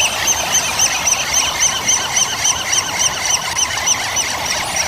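Bird calls played as a pelican's call: a dense chorus of many short, high chirps overlapping, with one chirp repeating evenly about three or four times a second.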